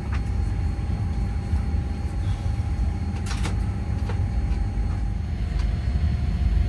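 Steady low rumble and faint hum of a Boeing 787-9 cabin before departure, with a few short clicks and knocks, the clearest about halfway through.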